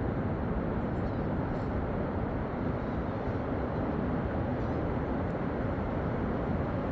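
A steady low rumbling noise that holds even, without surges or breaks.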